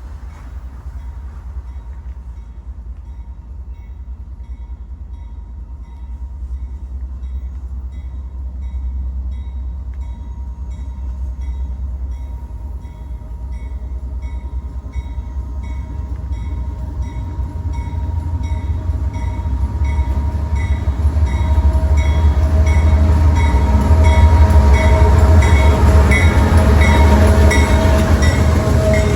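A train approaching, its rumble building steadily louder, with a ringing ding repeating about once a second. A steady tone grows stronger as it draws near.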